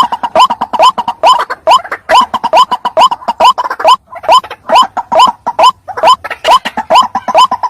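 White-breasted waterhen (ruak-ruak) calling loudly in a rapid run of short, upward-sliding notes, about three to four a second.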